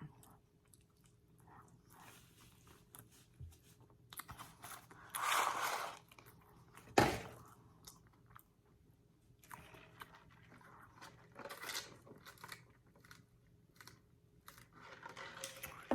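Close-up chewing and crunching of fast food, in scattered crackly bursts, with one sharp knock about seven seconds in.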